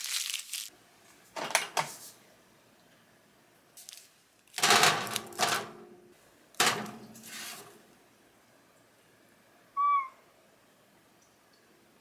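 Crinkling and rustling handling noises in several short bursts, then a single short high-pitched chirp about ten seconds in.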